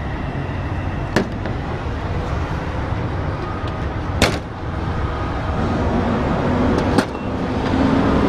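Steady low rumble of an idling diesel truck engine, with three sharp clicks or knocks about three seconds apart; a steadier low hum joins in about two-thirds of the way through.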